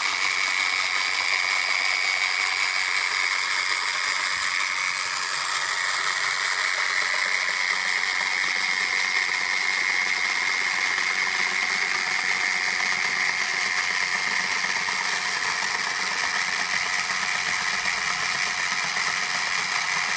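Robot vacuum cleaner running: a steady motor whir with a high whine that holds on through, shifting slightly about five seconds in.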